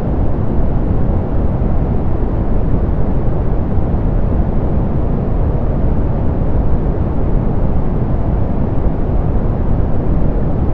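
Steady, even synthetic pink noise, softened, with most of its weight in the low end and little above a few thousand hertz, unchanging throughout.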